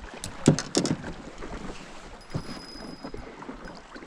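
Wind and river noise around a fishing boat, with a few sharp clicks or knocks in the first second, the loudest about half a second in.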